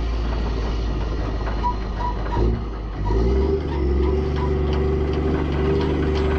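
Mack semi truck's diesel engine running under way. Its note changes about halfway through, then settles into a steady hum. A faint beeping, about three a second, runs through the first half.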